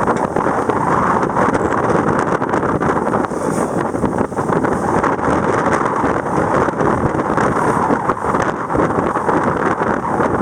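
Steady, loud wind buffeting the microphone aboard a sailing yacht under way, with the rush of the boat's motion mixed in.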